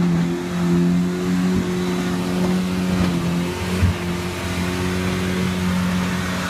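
Off-road 4x4's engine running at a steady, moderate speed with a slight waver in pitch, and a single thump a little past halfway.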